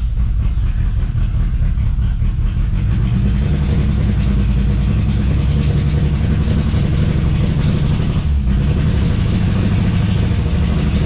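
1995 Mitsubishi Eclipse GST's turbocharged 2.0-litre four-cylinder engine running steadily just after starting, with one short dip a little over eight seconds in. It has been sitting for a long while and has a misfire.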